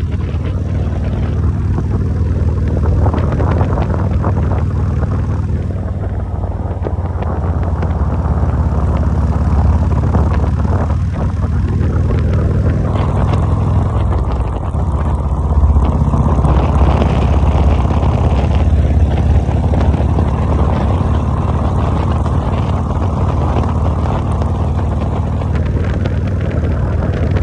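BMW R1250GS boxer-twin engine running steadily under way, with wind and road noise rushing over it that grows stronger about halfway through.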